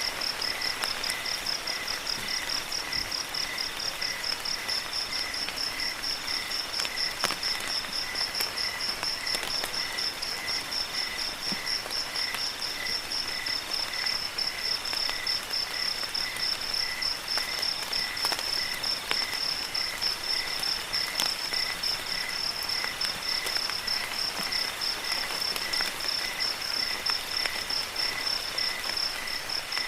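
Several crickets chirping in steady, evenly spaced pulses at different pitches, one high and quick, another lower and slower. A faint steady hiss of rain water sits beneath them.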